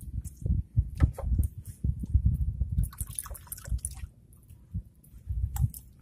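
Small water splashes and drips, scattered irregularly over a low rumble, busiest about a second in and again around three seconds in.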